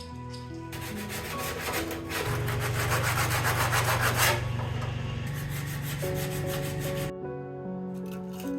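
Sanding the paint on a Porsche 924's steel door, a steady rubbing that stops briefly about seven seconds in and then starts again.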